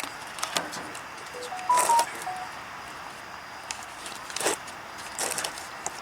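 Scattered metallic clicks and knocks of hand tools and air line fittings being handled and turned, loudest about two seconds in. A few brief squeaky tones sound around the same moment.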